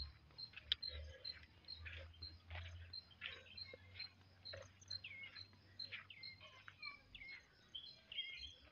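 Faint outdoor birdsong: scattered short chirping calls, over a high note that repeats evenly about three times a second. A low rumble sits underneath for much of the time.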